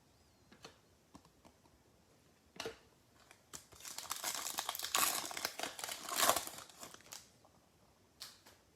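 Foil trading-card pack wrapper crinkling and tearing as it is opened by hand. The crackling runs for about three and a half seconds, after a single click.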